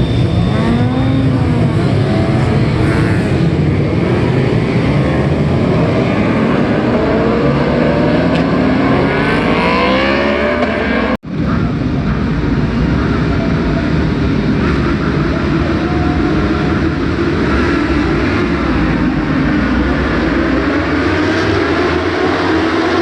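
Inline-four 1000 cc factory superbikes racing on track at full throttle, several engines overlapping, their exhaust notes rising and falling as they rev and change gear. The sound breaks off for an instant about halfway through, then picks up again.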